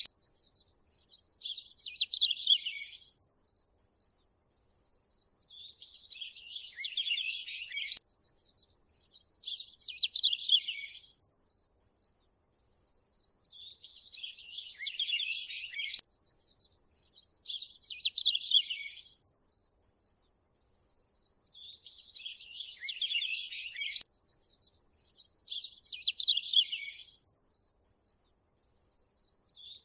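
Birds chirping in short clusters about every four seconds over a steady, high insect-like hiss. The pattern repeats exactly every eight seconds, with a faint click at each seam: a short nature-ambience recording looped.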